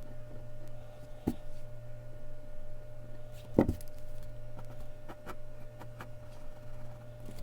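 Sparse light ticks and taps of a mechanical pencil working on Bristol paper over a steady low electrical hum, with a sharper knock about three and a half seconds in.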